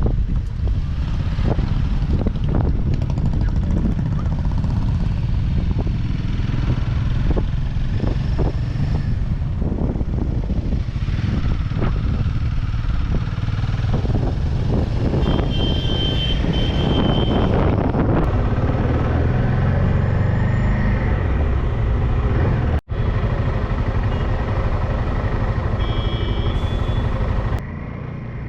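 Motorcycle running on the move, with heavy low rumble and scattered knocks from wind and road. The sound cuts out for an instant late on and is quieter near the end.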